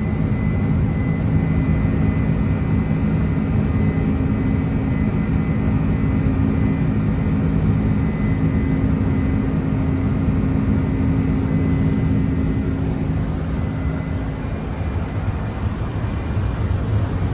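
Steady cockpit noise of a Boeing 747 in its climb: airflow and engine drone with a low hum. The hum eases off slightly about two-thirds of the way through.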